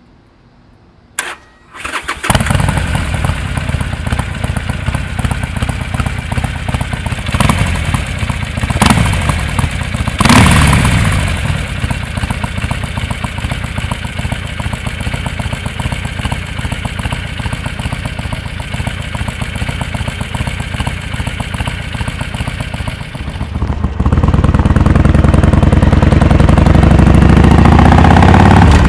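Harley-Davidson Forty-Eight's 1200 cc V-twin through a Rinehart Racing 3-inch slip-on exhaust with a Super Quiet baffle. After a click, it starts about two seconds in and idles, with three short throttle blips a little before the middle. In the last few seconds it turns much louder and steadier.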